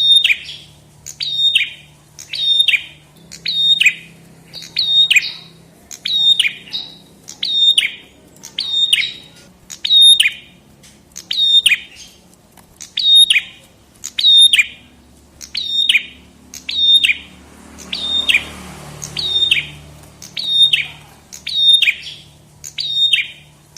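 Prenjak kepala merah (red-headed prenjak, a small warbler-type songbird) calling over and over, about once a second. Each call is a short, sharp note that slides down in pitch.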